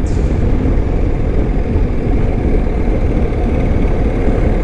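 BMW R1250 motorcycle's boxer-twin engine running steadily under way, with a low, even rumble of engine, road and wind noise.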